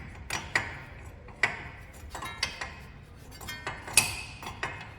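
Irregular sharp metal clinks and taps of a 22 mm wrench being worked on the upper ball joint nut of a Dakota pickup's front suspension, the loudest clink about four seconds in.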